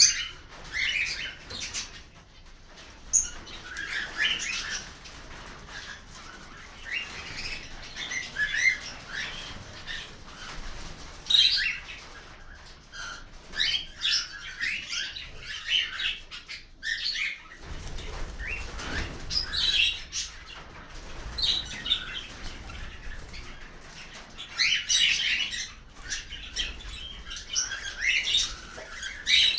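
A flock of cockatiels chirping and calling over one another in an aviary room: short, repeated high chirps and whistles in irregular clusters throughout.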